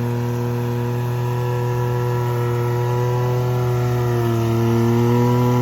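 Side-by-side's engine running at a steady idle, its pitch sagging slightly about four seconds in.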